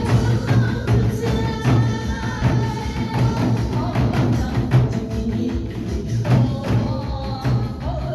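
Korean drums (a moeum-buk drum set) struck in a fast nanta rhythm over a recorded backing track with melody, with sharp strikes several times a second.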